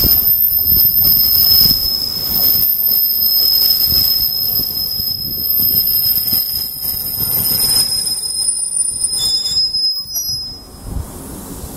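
JR Hokkaido 731 series electric train braking into a station, squealing in several steady high tones over the low rumble of its wheels. The squeal cuts off about ten and a half seconds in as the train comes to a stop.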